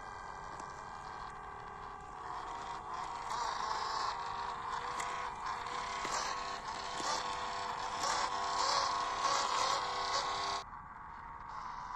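Electric drive motor and gearbox of a WPL 1/16-scale RC crawler truck whining steadily as it drives, louder from about two seconds in, with scattered small clicks and crunches from the tyres on the trail. The sound cuts off suddenly near the end.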